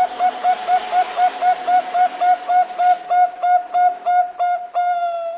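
Zebra dove of the Bangkok type (perkutut bangkok) cooing: a fast run of short, clipped coos at about three or four a second, closing with one longer, slightly falling coo that stops abruptly.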